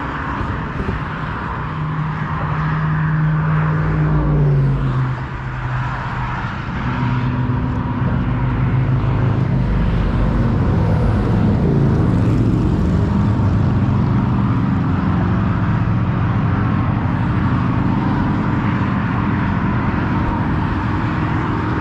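Motor vehicle engines running nearby, a steady low drone whose pitch shifts about four seconds in and again about seven seconds in, over a wash of traffic noise.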